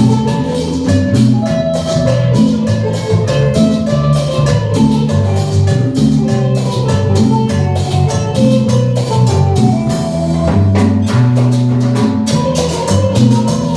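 Cumbia band playing an instrumental passage: a steady beat of drums and percussion under a moving bass line and a melody.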